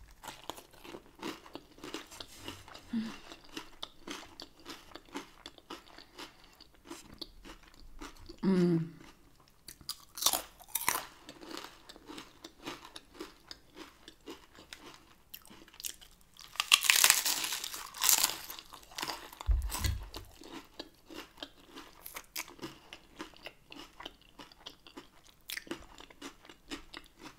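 A person chewing and crunching a crisp tortilla topped with shrimp ceviche, close to the microphone: many small irregular crunches, with louder bites about 8, 10 and 17 seconds in.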